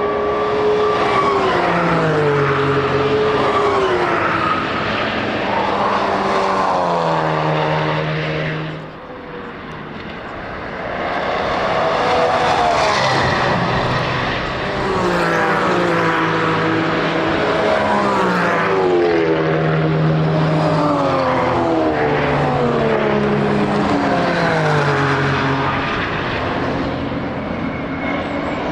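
Race car engines at full throttle going past one after another, each pitch climbing and then dropping back at every upshift, with a brief lull about nine seconds in.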